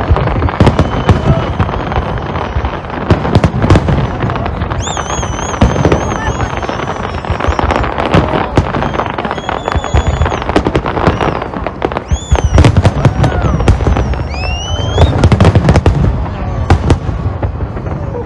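Fireworks display: a dense, irregular barrage of sharp bangs and crackles, with several high wavering whistles and one rising whistle near the end.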